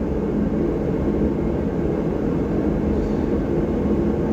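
Steady low mechanical drone with a faint hum, unchanging throughout.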